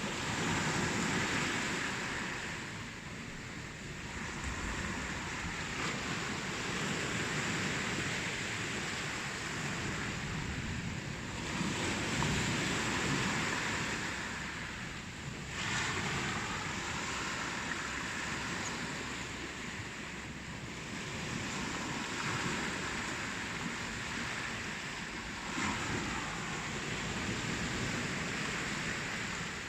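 Ocean waves breaking and washing on a shore, in swells every few seconds, with a sharper break about halfway through and another near the end.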